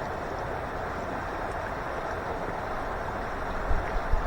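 River water rushing steadily, with a few low bumps near the end.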